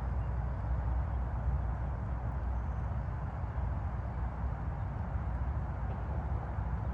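Steady hum of distant highway traffic, an even wash of noise with a low rumble underneath and no distinct events.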